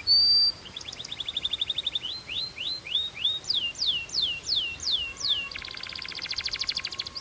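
Belgian canary singing a run of varied phrases: a short loud high whistle, a rapid trill, a series of rising notes, a series of slower falling whistled notes, then a fast rattling trill from about two thirds of the way in.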